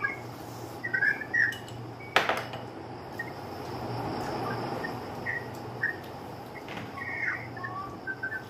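Short, high bird-like chirps scattered through, over a steady low hum. One sharp knock about two seconds in, as a ceramic soup bowl is set down on a glass tabletop.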